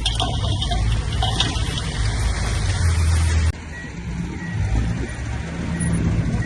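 Heavy earthmoving machinery running, with a diesel engine and mechanical noise. About halfway through, the sound cuts abruptly to another machine's steady engine hum with short, evenly spaced beeps of a reversing alarm.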